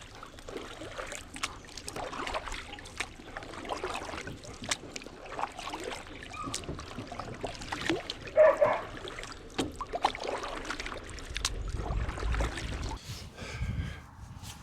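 Kayak being handled on the water: irregular knocks and clicks against the hull, the loudest about eight seconds in, with light splashing.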